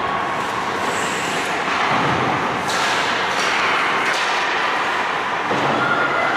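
Ice hockey game play in an arena: a steady wash of rink noise with a few sharp knocks of sticks and puck about three to four seconds in.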